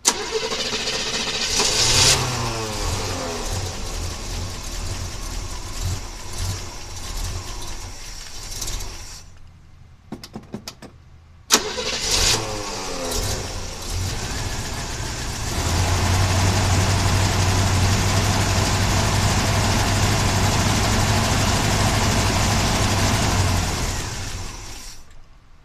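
A 1976 Chevy Blazer's engine starts and runs, then dies about nine seconds in. After a few clicks and one sharp bang it starts again and settles into a steady, louder run, then dies near the end. It is a hard-running engine that the owner is only keeping going by spraying carburetor cleaner into a vacuum line at the carburetor.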